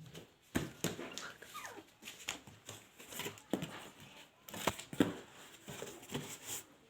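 Puppies whimpering and yipping: a string of short, high cries, some falling in pitch.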